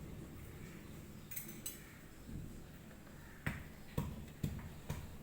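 Four sharp clicks and light knocks of hard parts being handled, about half a second apart in the second half, over a low hum.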